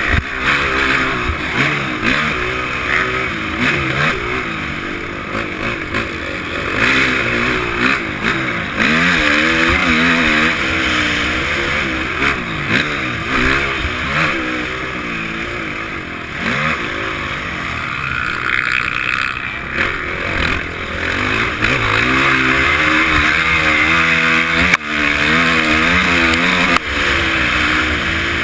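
Honda CRF450's single-cylinder four-stroke engine being ridden hard, its pitch rising and falling over and over as the throttle opens and closes. Wind rushes across the helmet-mounted microphone.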